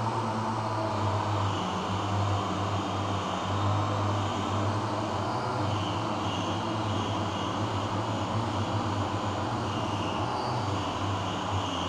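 A machine running steadily with an even, unbroken hum.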